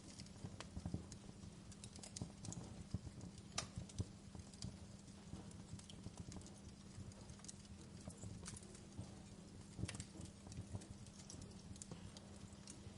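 Campfire crackling, with irregular sharp pops and snaps over a steady low rumble of burning wood; the sharpest pops come around four seconds in and again near ten seconds.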